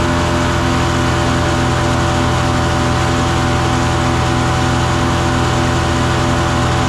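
Gasoline engine of a BigBear Power 7-inch wood chipper running at a steady speed, with a faint pulse about three times a second.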